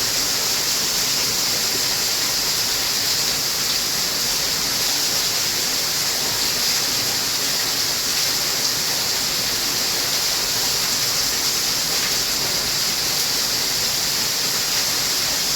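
Water pouring over the overflow of a small hydroelectric power plant: a steady, unbroken rush of falling water.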